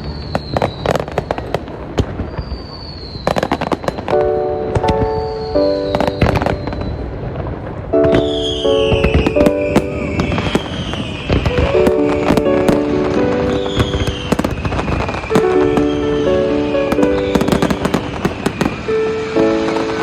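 Fireworks banging and crackling in quick succession, with several short falling whistles, over music with held chords.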